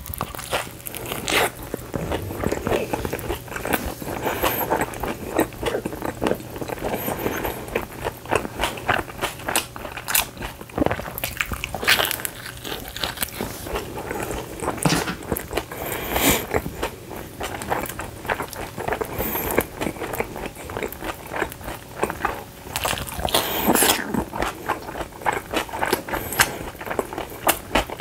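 A person biting and chewing pizza, with crunches from the crust and a steady run of small mouth clicks.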